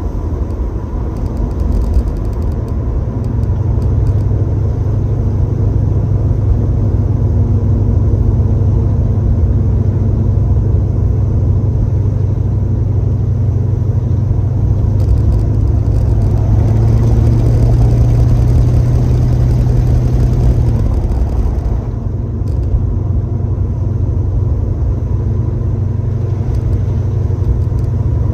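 1966 Chevrolet Chevelle's engine and exhaust drone steadily from inside the cabin while under way, with road noise. The drone grows stronger through the middle and eases back about three-quarters of the way through, as the throttle comes off.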